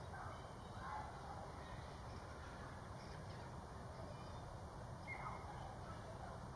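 Faint, scattered calls of distant birds over a low steady rumble of outdoor background.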